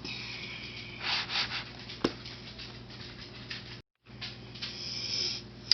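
Rustling and rubbing handling noises, with a sharp click about two seconds in.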